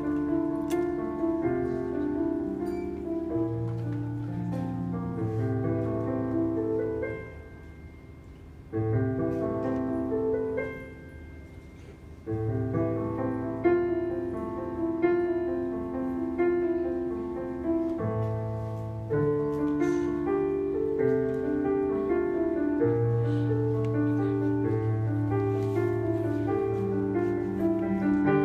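Piano music: slow held chords over a moving bass line, going quieter twice in the first half.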